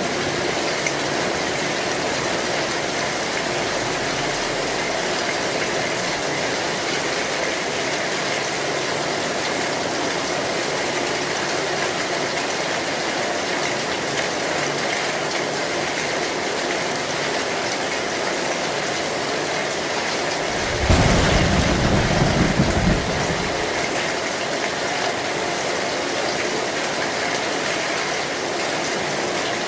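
Heavy rain drumming steadily on an old metal and zinc roof, with a short, loud rumble of thunder about two-thirds of the way through.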